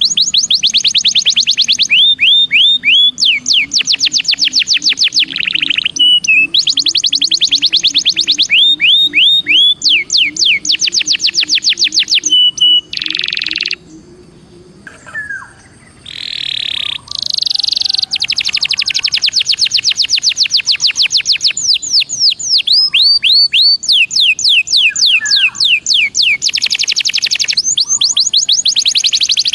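Domestic canary (Belgian canary) singing long rolling trills of rapid repeated high notes, broken by a short pause about halfway through before the trills resume.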